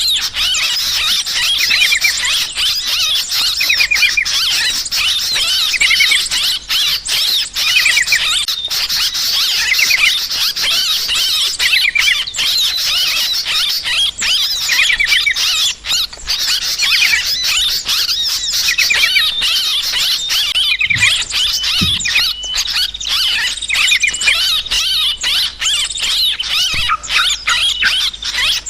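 Yellow-vented bulbuls (trucukan) chattering in a dense, noisy flock, many rapid high chirps and trills overlapping without pause. This is the agitated 'ribut' calling used as a lure to draw birds in.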